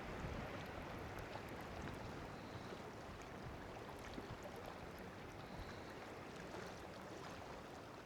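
Steady wind noise, a low even rush with no distinct events.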